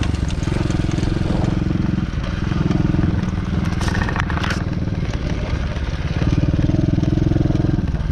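DB14 110cc pit bike's single-cylinder engine running under throttle, its pitch stepping up and down as the rider opens and closes the throttle. A brief scraping rustle comes about four seconds in.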